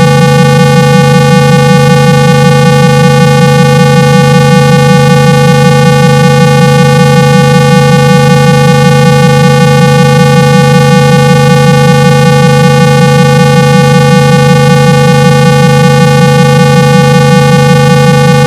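Loud, unchanging 165 Hz electronic test tone with many overtones above it: a low buzzing tone played to vibrate a phone's loudspeaker and shake water out of it.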